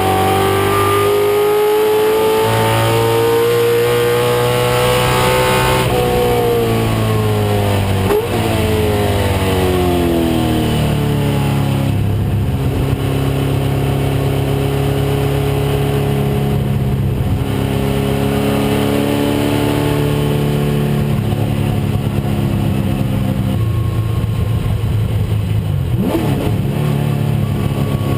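1996 Ford Mustang race car's engine running hard on track. The revs climb for the first several seconds, fall away over the next few, hold fairly steady for a long stretch, then rise again near the end.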